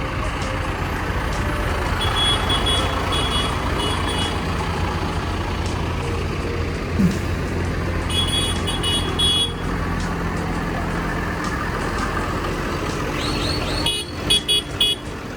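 Tractor and farm-vehicle diesel engines running steadily as they pass in a parade. Three bursts of rapid high-pitched beeping come over them: about two seconds in, around eight seconds, and near the end.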